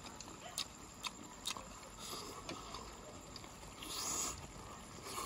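Close-up eating sounds of a person chewing loach and rice: wet chewing and lip smacks with scattered sharp clicks, and a louder noisy burst as a bite is taken about four seconds in.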